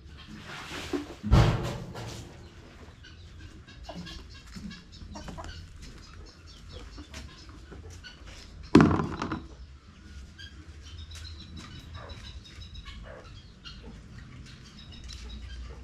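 Chickens clucking, broken by two heavy thumps, one about a second in and another near nine seconds in.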